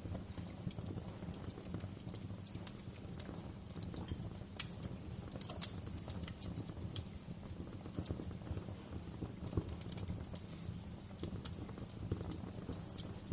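Log fire crackling: a steady low rumble of burning with irregular sharp pops and snaps, a few louder ones spread through.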